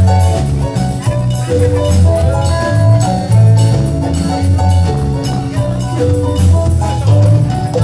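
Campursari band playing an instrumental passage with no singing. A bass line and a steady drum beat run under a bell-like, gamelan-style melody.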